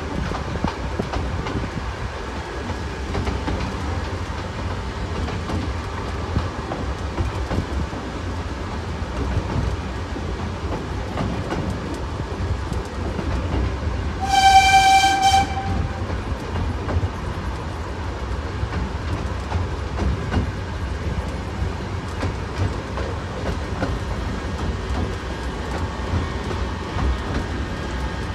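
North Bay Railway miniature train running, with a steady low rumble and the clatter of wheels on the rail joints. About halfway through, the locomotive sounds one whistle blast of about a second on a single steady note.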